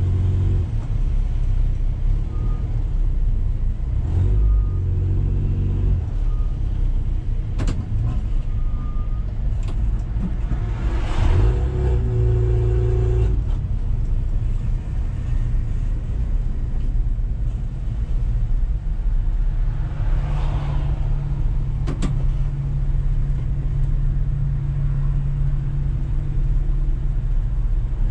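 Renault Mégane III RS's 2.0-litre turbocharged four-cylinder idling in a stopped queue, a steady low rumble heard from inside the caged cabin. A few faint short beeps sound in the first several seconds, and the noise swells briefly twice, around the middle and about two-thirds of the way through.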